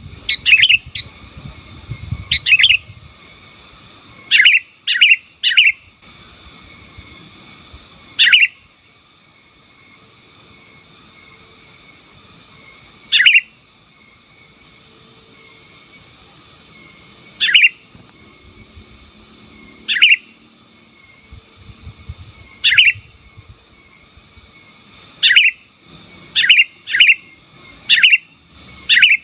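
Sooty-headed bulbul (kutilang) singing: short, loud calls, at first in quick runs of two or three, then single calls a few seconds apart, and clustered again near the end, over a faint steady hiss.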